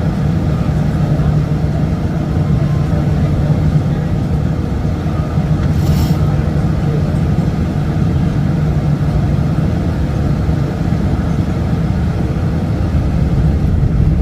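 Cabin noise inside a Boeing 747 on its landing approach: a loud, steady rumble of the jet engines and rushing air, with a brief hiss about six seconds in.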